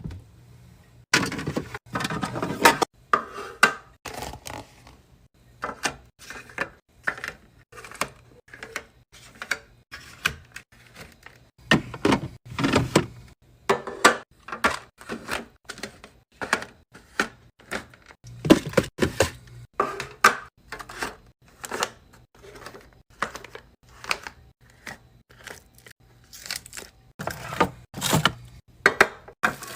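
Food containers and packages being set down and handled while a fridge is stocked: a quick, irregular run of knocks, clicks and taps, some with a short rustle, over a faint low hum.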